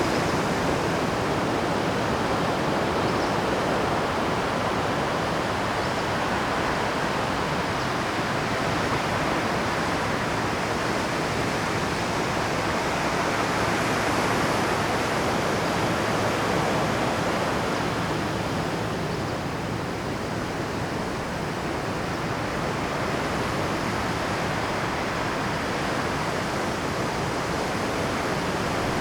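Rough Pacific surf breaking on rocks: a continuous rush of waves that grows a little louder about halfway through, then eases slightly.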